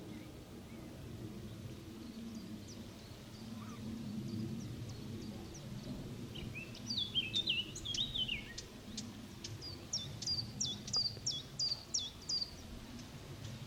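Small birds singing outdoors: a quick warbled phrase of falling notes, then a run of about eight short, high, down-slurred notes repeated about three a second, over a steady low background rumble.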